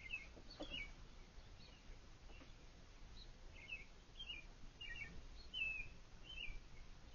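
Faint bird chirps: short high calls, a few early on and then about every half second in the second half, over a steady low background hiss.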